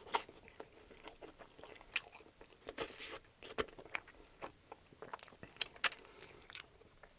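Close-miked chewing of a mouthful of sub sandwich with crisp raw vegetables: irregular wet crunches and mouth clicks.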